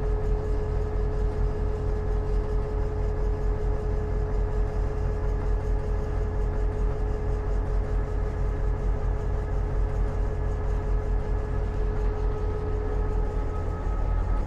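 EMD GP38-2 diesel-electric locomotive's 16-cylinder 645 engine running, heard from inside the cab as a steady heavy low rumble with a steady hum over it.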